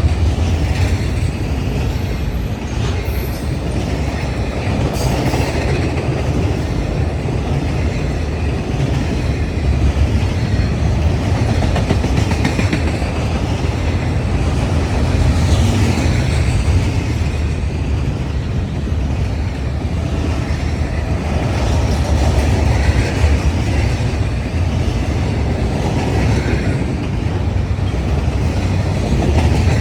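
BNSF intermodal freight train rolling steadily past, its cars running over the rails.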